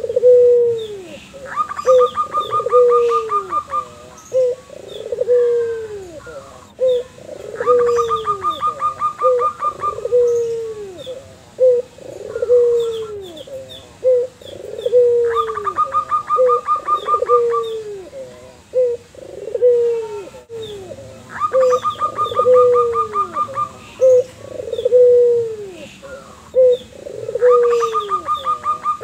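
A white puter dove (domestic collared dove) and a zebra dove calling back and forth. Low coos fall in pitch and repeat steadily, and a rapid rolling trill of higher notes lasting about two seconds comes five times, every six or seven seconds.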